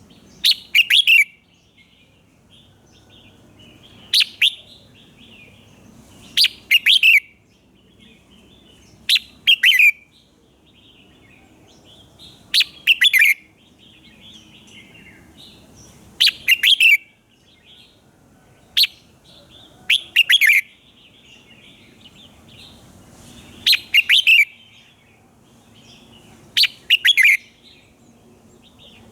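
Red-whiskered bulbul singing: short, loud, bright song phrases repeated about every three seconds, with softer twittering between them.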